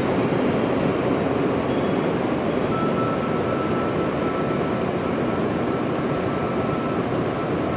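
Nishi Kyushu Shinkansen Kamome N700S train running slowly on arrival at the station, a steady rumble that eases off a little. A faint steady high tone comes in about three seconds in.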